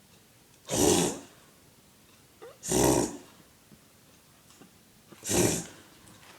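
A dog reverse sneezing: three loud, rough pulls of air, each about half a second long, roughly two seconds apart.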